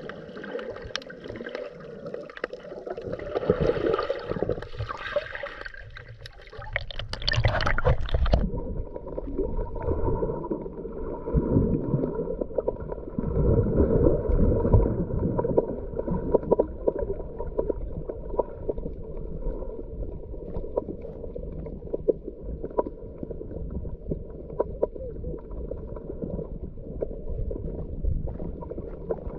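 Underwater bubbling and gurgling heard through a GoPro housing: a scuba diver's exhaled regulator bubbles, swelling and fading every few seconds with the breathing.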